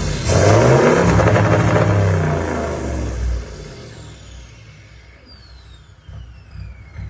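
Toyota Land Cruiser V8 engine revved hard once, its pitch climbing and then falling away as it drops back and fades over about three seconds. Near the end, thin high whistling tones slide down in pitch.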